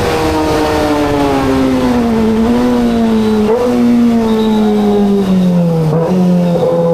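Kawasaki ZX25RR's 249 cc inline-four engine running under a riding motorcyclist. Its note falls gradually as the revs drop, with a few brief jumps in pitch along the way.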